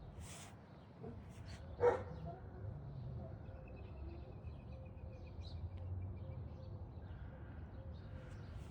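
A single short animal call about two seconds in, over a low steady background rumble, with a faint high trill from about three and a half to six and a half seconds.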